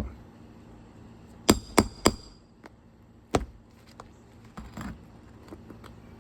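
Roofing hammer striking metal with a short ringing tone while nails are pulled from asphalt shingles: three quick blows about a third of a second apart, one more about a second later, then a softer scrape.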